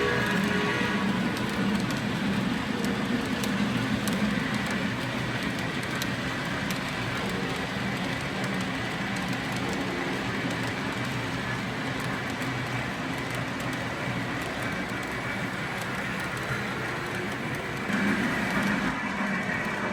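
Lionel Legacy O gauge model of the Santa Fe 2926 steam locomotive running at track speed: a steady rumble of its wheels and motor on the rails, with faint scattered clicks.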